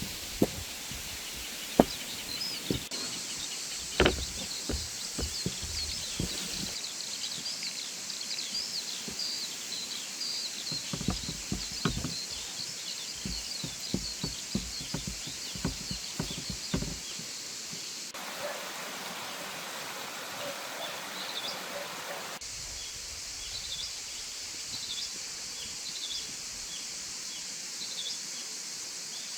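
Small birds chirping repeatedly over a steady outdoor hiss, with scattered sharp clicks and knocks through the first half that stop at about 17 s.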